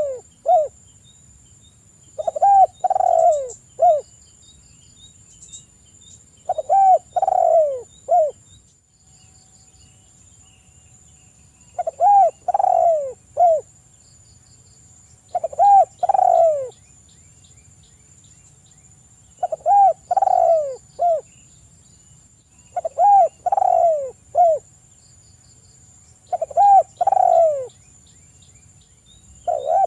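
Spotted dove (tekukur) cooing: a phrase of three or four falling coos, repeated about every three to four seconds, some eight times.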